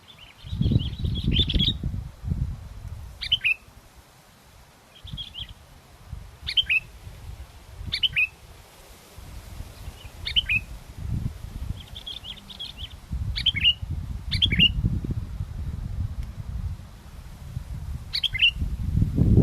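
Sooty-headed bulbul (kutilang) calling over and over: short, sharp, downward-sweeping notes every second or two, mixed with brief chattering trills. Strong wind buffets the microphone in gusts, making a low rumble.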